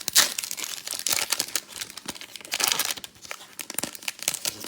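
A 2020 Panini Chronicles football card pack's wrapper being torn open and crinkled in the hands: a dense run of crackles that thins out after about three seconds.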